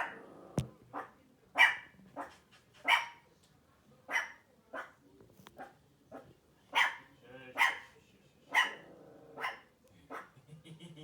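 A dog barking in short, sharp single barks, about nine of them at irregular gaps.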